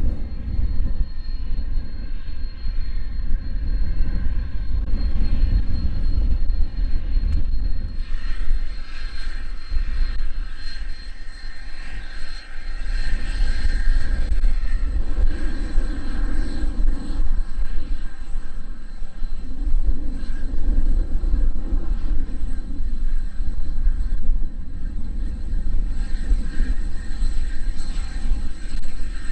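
Jet aircraft engines running with a steady high whine, a second, higher whine joining about a quarter of the way in, over strong wind rumbling on the microphone.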